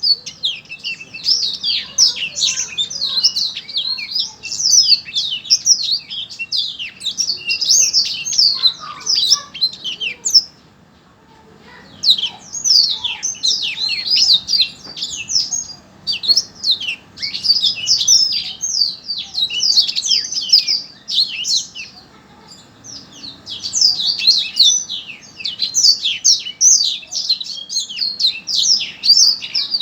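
A songbird singing a rapid, chattering song of quick high chirps, in long phrases broken by two short pauses, about a third of the way in and about three quarters of the way in.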